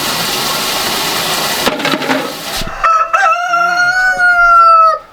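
A steady hiss that cuts off, then a rooster crowing: one long crow that rises at its start, holds and stops abruptly near the end.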